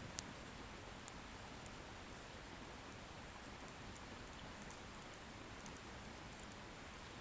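Wood bonfire burning softly: a faint steady hiss with scattered small crackles, and one sharp pop from the firewood just after the start.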